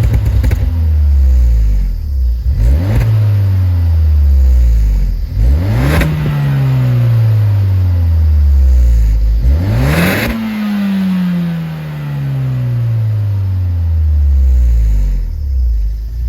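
Exhaust of a Suzuki Swift Sport ZC33S, a 1.4-litre turbocharged four-cylinder, through an aftermarket R's muffler, revved in three blips. Each time the revs jump up sharply and then sink slowly back.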